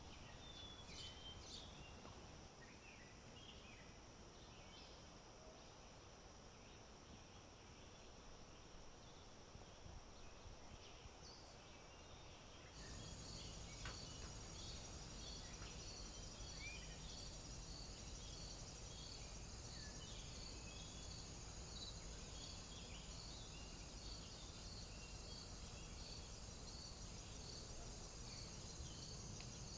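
Faint outdoor ambience: a steady high insect chorus with scattered short bird chirps. About 13 seconds in, the sound steps up suddenly to a louder low rumble, like wind on the microphone, and the insect chorus turns to a regular pulsing.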